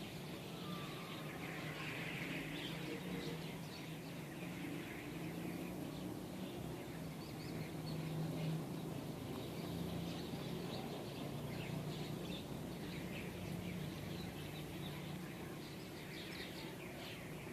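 Many small birds chirping in a dense, overlapping scatter of short high calls, over a steady low hum.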